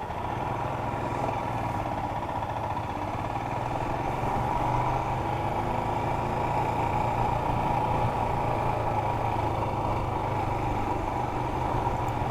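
Motorcycle engine running steadily on the move: a steady low hum with a higher even tone above it, growing slightly louder over the first few seconds.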